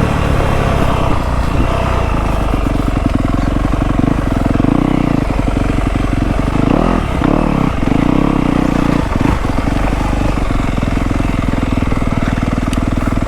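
Dirt bike engine running at low, fairly steady revs, with small throttle changes.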